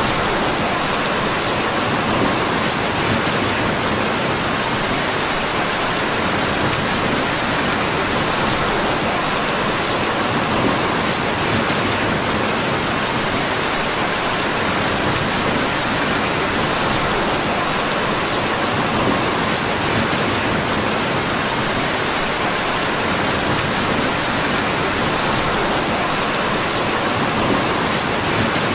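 Steady, even rain falling, with a few faint scattered ticks.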